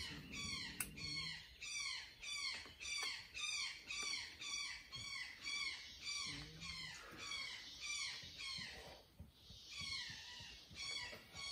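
A bird calling in a rapid, even series of short down-slurred chirps, about two to three a second, with a brief break about nine seconds in.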